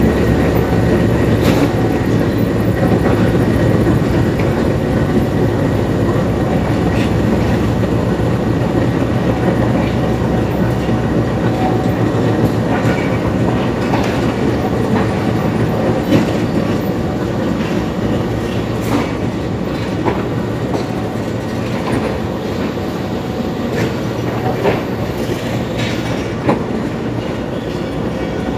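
A diesel-hauled passenger train pulling out slowly, its coaches rolling past with a steady low rumble and wheels clacking over rail joints. The rumble is loudest at first and slowly fades as the locomotive draws away.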